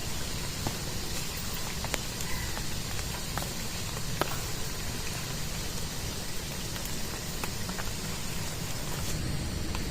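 Steady rain falling, with scattered sharper ticks of individual drops striking a surface.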